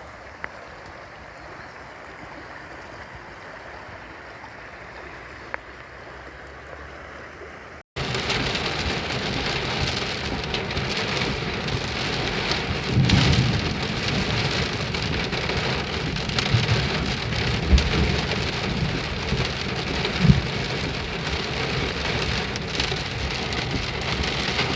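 Rainwater runoff rushing steadily for about eight seconds. Then, after a sudden break, much louder heavy rain pours down, with a few low thumps along the way.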